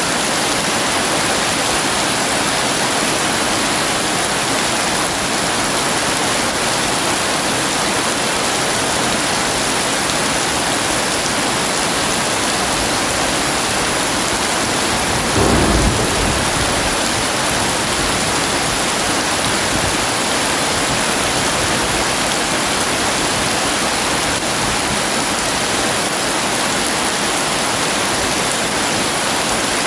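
Heavy rain pouring steadily, with one short low rumble of thunder about halfway through.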